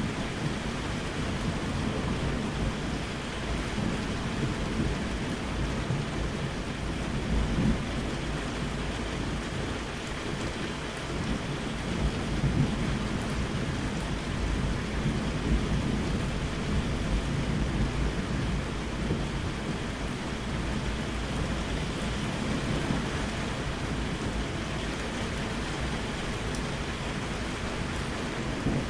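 Steady rain falling with rolling thunder; the low rumble swells about a quarter of the way in and again from around the middle.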